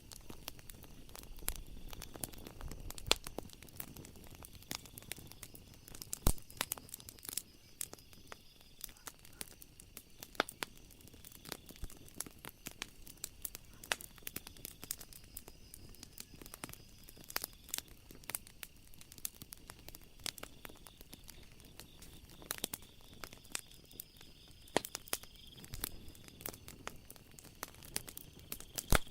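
Wood fire crackling with irregular sharp pops and snaps, a few louder ones standing out, over a faint steady high-pitched background tone.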